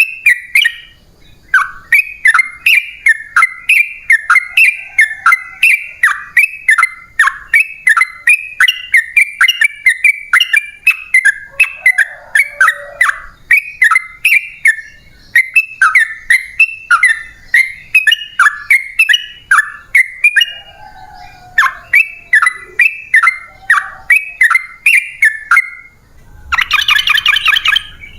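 Yellow-vented bulbul (trucukan) singing a long, rapid run of short bubbly notes, about three a second, with a brief pause partway. Near the end comes a harsher, buzzy call.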